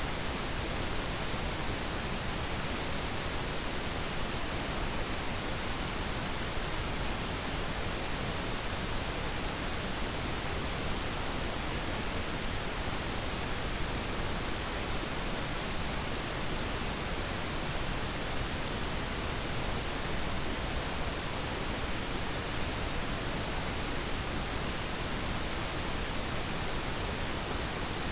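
Steady pink noise: a constant, even hiss with no changes.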